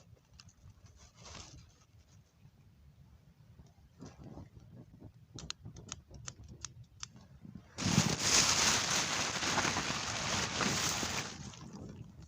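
Small campfire kindling crackling with scattered faint snaps, then about eight seconds in a loud rushing of air for about three seconds before it drops away.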